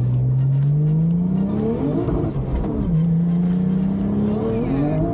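Turbocharged Porsche 997 flat-six accelerating hard, heard inside the cabin: the revs climb steadily, drop with an upshift about three seconds in, then climb again toward another shift near the end.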